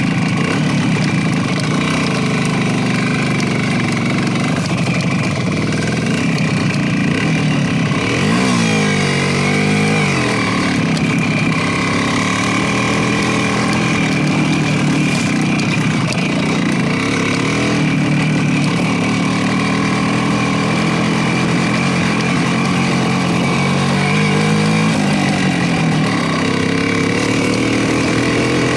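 Motorcycle engine running while riding, its note rising and falling with the throttle, most clearly about nine seconds in and again near the end.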